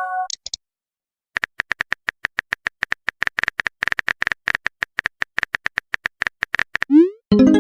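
Phone keyboard typing sound effect: a rapid run of tap clicks lasting about five seconds, then a quick rising swoosh of a message being sent and the start of a short pitched chime near the end.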